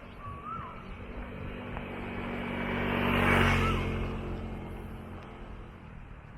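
A car passes by, its engine hum and tyre noise growing to a peak about three seconds in and then fading away.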